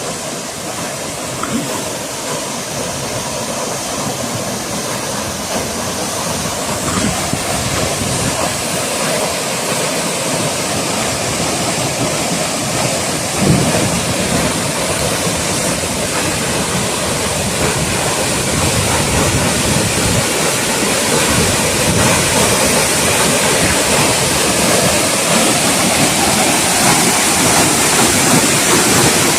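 Fast-flowing water rushing steadily, such as a swollen stream in spate, growing slightly louder over time; a single brief knock about halfway through.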